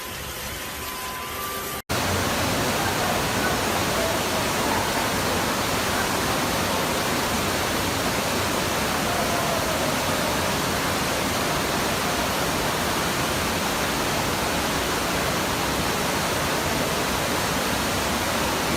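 Loud, steady rushing of water that cuts in abruptly about two seconds in and stays even throughout.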